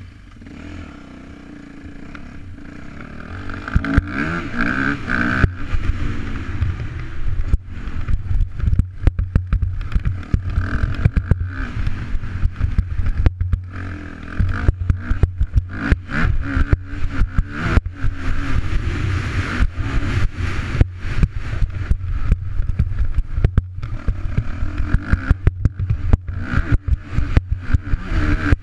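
Yamaha YZ250F four-stroke single-cylinder dirt bike engine running quietly and steadily for the first few seconds. About four seconds in it gets louder and revs up and down over and over as the bike is ridden, with frequent short knocks.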